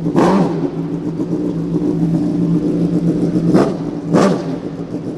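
PGM V8 motorcycle's 2.0-litre V8, built from two Yamaha R1 cylinder banks on a flat-plane crank, idling through a near straight-through titanium Akrapovič exhaust and blipped three times, each rev a quick rise and fall in pitch: once soon after the start and twice close together near the end.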